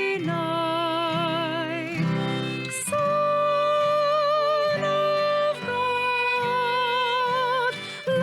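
A singer holding long notes with vibrato, changing pitch every couple of seconds, over acoustic guitar accompaniment.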